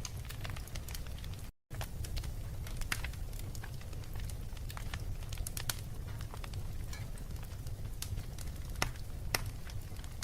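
Fire crackling in a fireplace: irregular sharp pops and snaps over a steady low rumble. The sound drops out to silence for a moment about one and a half seconds in.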